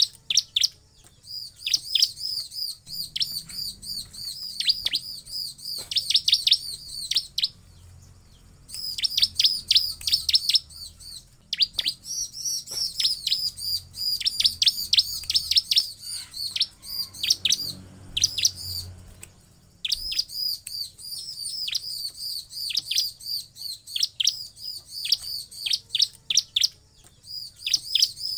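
Bar-winged prinia (ciblek) singing: long runs of rapid, sharp, high chirping notes, broken by a few short pauses.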